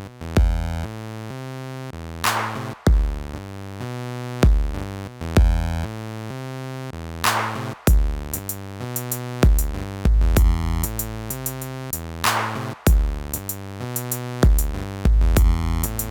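Electronic instrumental music: a drum-machine beat with deep kick thumps under synthesizer bass notes and chords, and a bright burst of noise about every five seconds.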